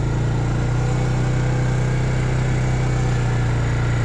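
Quad bike engine running steadily at low speed, its note dropping slightly under a second in.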